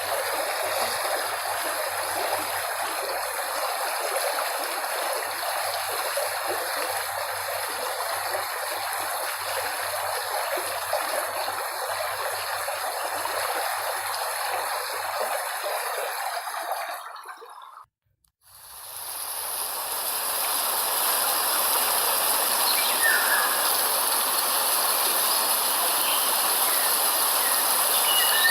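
A stream running steadily with a trickling, rushing sound, fading out about two-thirds of the way through. After a brief gap, a different, brighter steady hiss fades in with a few short high squeaks.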